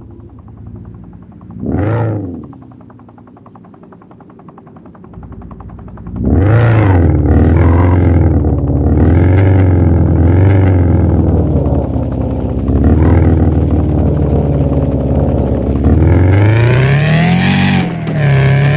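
A vehicle engine revving: a short rev about two seconds in, then running loud from about six seconds in with repeated revs rising and falling, and a longer rising rev near the end.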